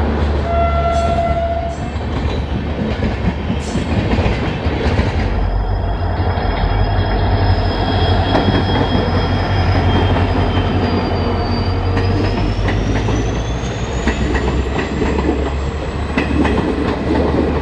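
Slow-moving passenger trains passing at track level, with steady rumble and wheel clicks over the rails. A brief horn note sounds about half a second in. Later an EMD WDP4D diesel locomotive runs past with its coaches, while a high whine holds steady and then rises in pitch.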